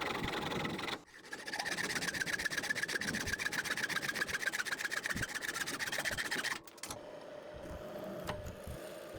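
Tabs on a rusty water-pipe spanner being thinned down by abrasion, metal on metal: a fast, even rasping scrape with a wavering whine over it. It breaks off sharply at about one second and again at about six and a half seconds, then gives way to a quieter, steady lower hum.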